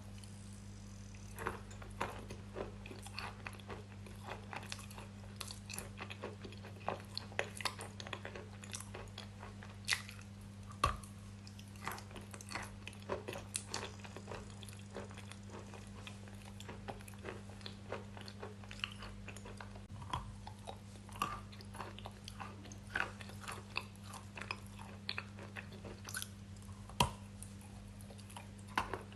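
Close-miked chewing and biting of something crunchy, with many short crisp crunches at an irregular pace, over a steady low electrical hum.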